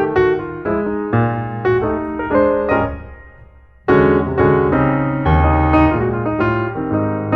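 Background piano music: a phrase of struck notes fades away, and a new, louder phrase starts about four seconds in.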